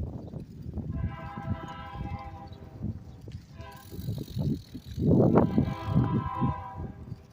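Bicycle coasting, its freewheel hub buzzing in two stretches, over a low irregular rumble.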